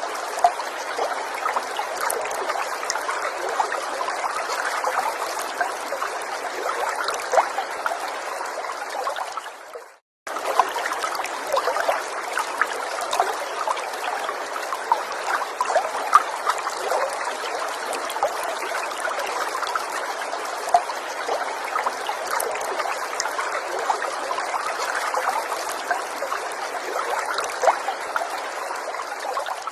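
Small forest stream trickling and babbling steadily over stones, with many small splashes. About ten seconds in, it fades out for a moment and cuts back in.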